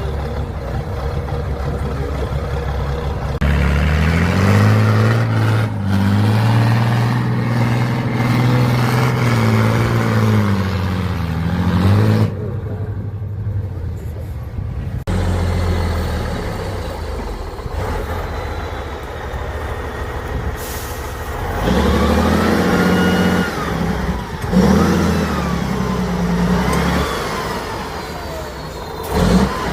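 Heavy off-road trial truck's engine revving up and down repeatedly as it works through a trial section, with two spells of revving.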